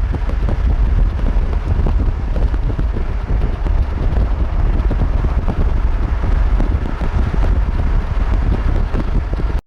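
Strong wind buffeting the microphone, a heavy, uneven low rumble with rushing noise over it, which cuts off abruptly near the end.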